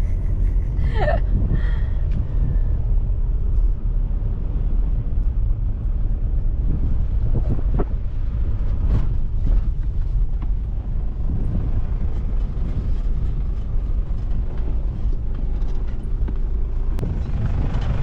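Car driving along with a steady low rumble, with a few knocks and rattles about halfway through.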